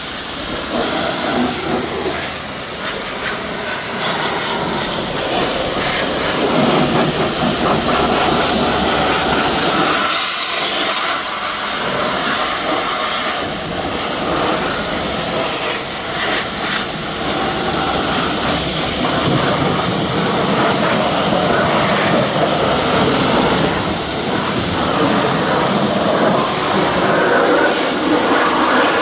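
Pressure washer spraying: a loud, steady hiss of the high-pressure water jet, rising and falling a little as the spray moves.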